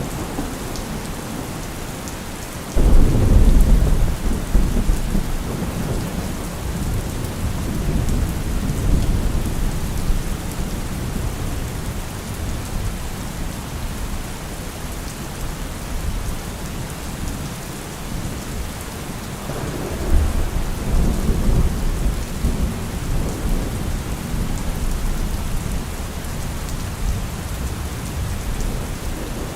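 Steady rain falling, with thunder: a sudden loud clap and rumble about three seconds in that rolls away over several seconds, and a second, softer rumble of thunder about two-thirds of the way through.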